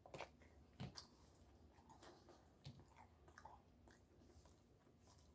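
Faint bite into a crispy fried chicken sandwich, then chewing, with two sharper crunches in the first second and softer ones after.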